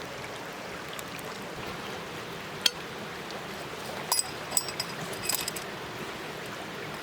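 Metal cookware being handled: a single sharp click, then a second or so later a cluster of short, ringing metallic clinks and rattles, over a steady background hiss.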